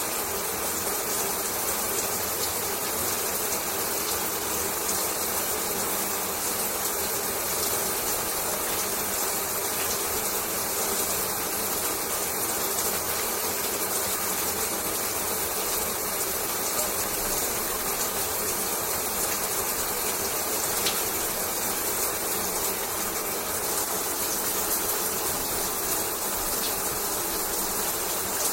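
Shower running: a steady hiss of water spraying and splashing, with a fine scatter of small droplet clicks through it.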